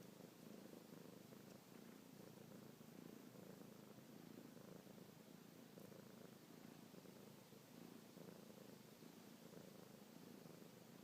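Kitten purring steadily and continuously, a faint low rumble.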